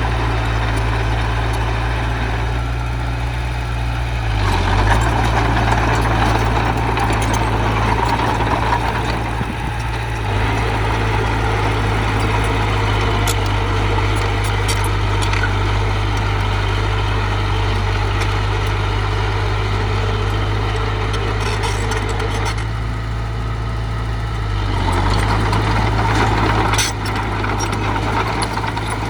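Heavy diesel engine of earth-moving machinery running steadily, growing a little louder under load about four seconds in and again near the end.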